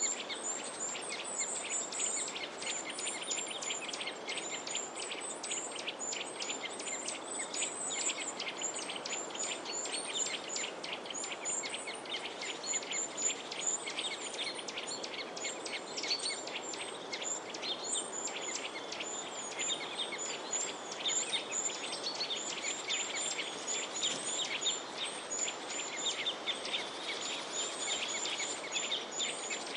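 A dense chorus of many small birds chirping and twittering continuously, rapid short high calls overlapping one another, over a steady background hiss.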